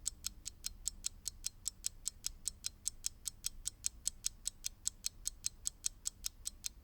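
Mechanical clock ticking steadily and quickly, about five or six crisp, high ticks a second, alternating stronger and weaker.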